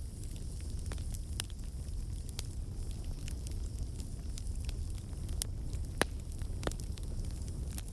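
Campfire burning: a steady low rumble of flames with irregular sharp crackles and pops from the burning wood, one louder pop about six seconds in.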